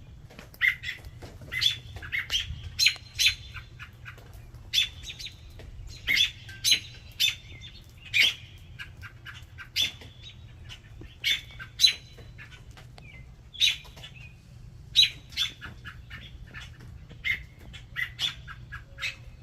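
American robins giving short, sharp calls, repeated irregularly about one or two times a second: the agitated alarm calling of a parent robin near its just-fledged young.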